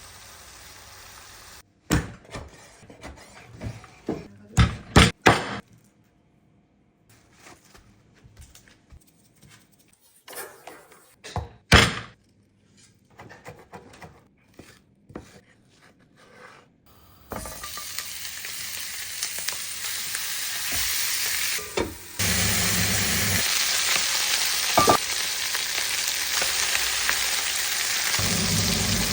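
Kitchen knocks and clatters, scattered over the first half, then chicken frying in a pan: a steady sizzle that starts a little past halfway and grows louder a few seconds later.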